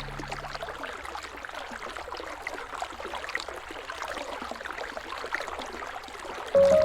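Flowing river water, a steady trickling and burbling with many small splashes. A low music note fades out in the first second, and music tones come back in near the end.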